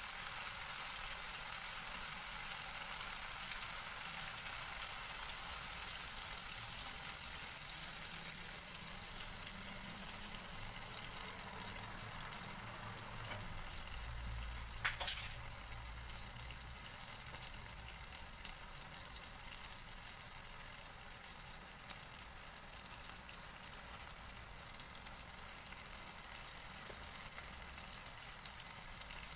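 Tomato, onion and egg sizzling steadily in a wok over a gas flame, easing a little in the second half, with a short knock about halfway through.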